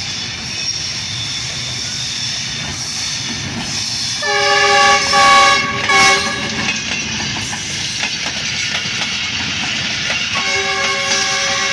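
Diesel-electric locomotive passing at speed, with the steady rumble and clatter of its wheels and coaches on the rails. Its multi-tone horn sounds in a few short blasts about four seconds in, the loudest part, and is held again from about ten seconds in.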